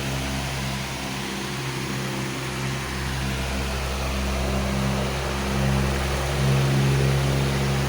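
Powerful electric fan running steadily: a rush of moving air over a low motor hum made of several steady tones, swelling slightly in loudness now and then.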